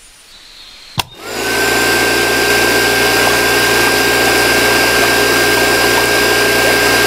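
Small electric motor switched on with a click about a second in, then running steadily with a constant high whine over a low hum.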